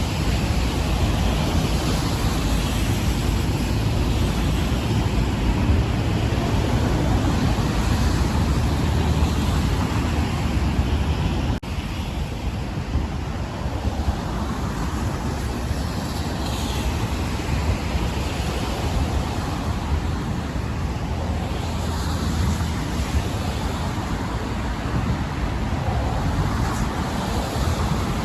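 Wind buffeting the microphone in a steady low rumble, mixed with the hiss of car traffic passing on the bridge roadway.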